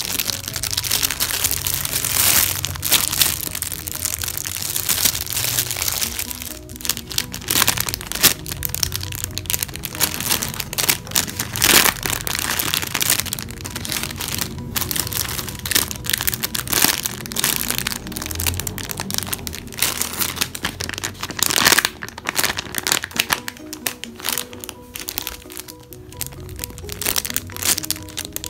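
Background music, with irregular crackling and crinkling of plastic packaging as squishy toys in their bags are handled.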